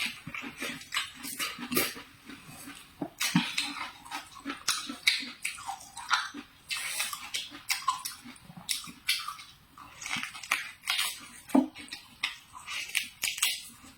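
Close-miked mukbang eating sounds: a person chewing stir-fried vegetables, with irregular wet smacks and crunches several times a second.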